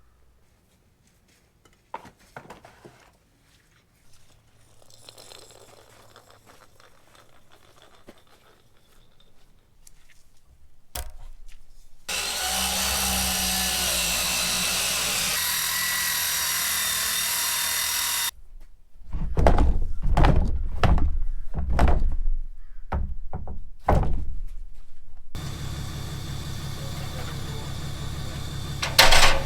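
A power saw rip-cutting pressure-treated 2x6 boards lengthwise, a steady cut of about six seconds, followed by a quick run of loud wooden knocks as the boards are handled and dropped. A steady low engine hum takes over near the end.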